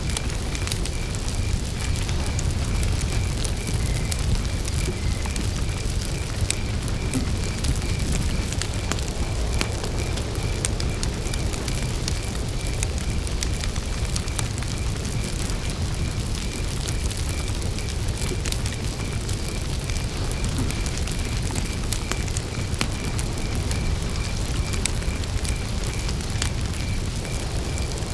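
Campfire burning, with frequent small crackles and pops over a steady low rumble. A cricket chirps throughout at one pitch, in a steady, evenly spaced rhythm.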